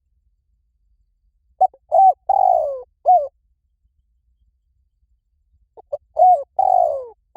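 Spotted dove cooing, a recorded call used to lure doves: two phrases, each a few short coos leading to a longer falling coo and a short closing note.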